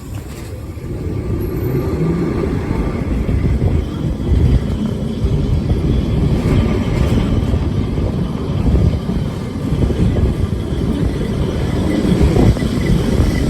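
Tram running along its rails with a steady low rumble. It grows louder over the first couple of seconds, then holds with small swells.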